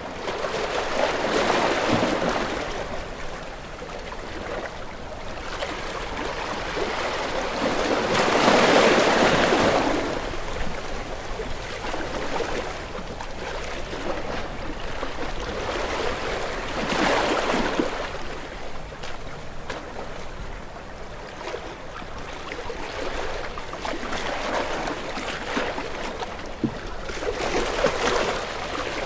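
Ocean waves washing onto the shore, each one swelling up and falling away about every eight to ten seconds; the loudest breaks about nine seconds in.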